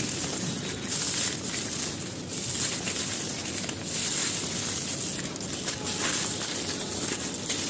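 Brittle, gritty material being crumbled and crushed by hand: a steady crackling grind with louder crunches every second or two.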